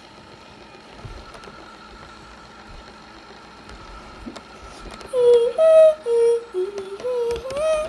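A voice singing a few held, sliding notes, starting about five seconds in. Under it runs a faint, steady whine from the Roomba robot vacuum's motor.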